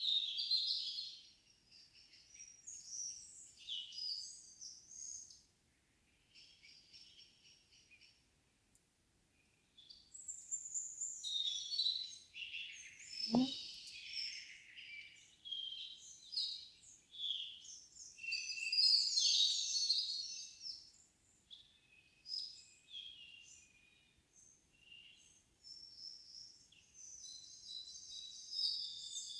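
Several songbirds singing in an evening forest, with short, varied phrases overlapping one another. The singing stops for a couple of short pauses, then picks up busier again.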